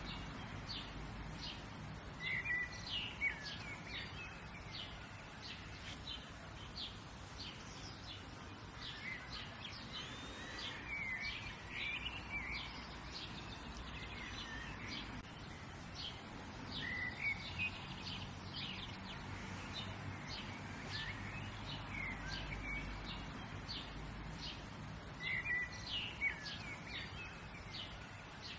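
Songbirds chirping and singing: quick high chirps all through, with a short song phrase coming back every few seconds. A faint steady low rumble of outdoor background noise lies underneath.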